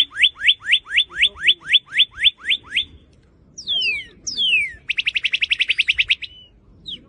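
Northern cardinal singing. It gives a run of rising whistled notes, about four a second, then after a pause two long falling slurs and a fast trill.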